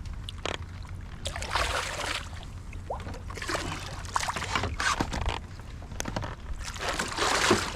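Water splashing and sloshing in several short bursts, with a few knocks, around a fishing kayak while a hooked fish is being brought in.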